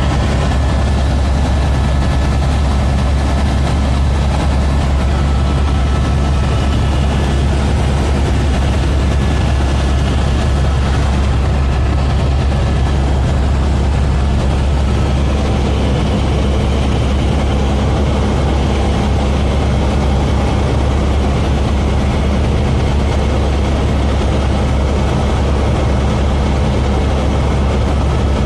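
A helicopter's rotor and turbine engine running with a loud, steady low drone and a few faint, steady high tones above it.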